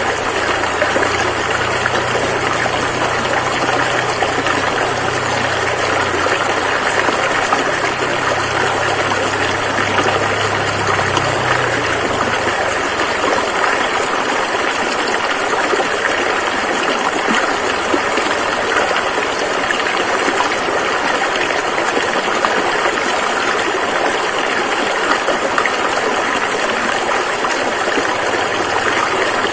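Rushing river water flowing steadily, a constant even noise. A faint low hum underneath fades out about twelve seconds in.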